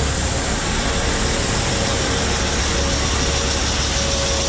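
Farm grain-unloading machinery running steadily: a constant low engine and motor drone with a faint steady whine over it.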